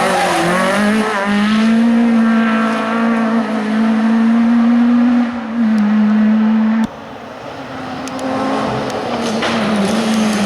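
Hill climb racing car engine at high revs, holding a steady note with a brief lift about five seconds in. About seven seconds in the sound drops off suddenly, and a quieter engine rises toward the end.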